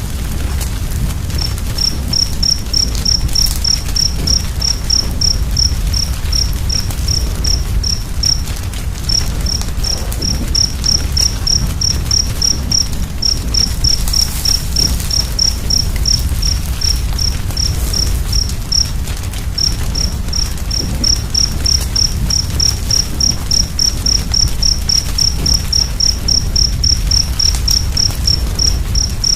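Cricket chirping in an even run of about three high chirps a second, pausing briefly twice, over the low, steady rumble of a wood fire with a few faint crackles.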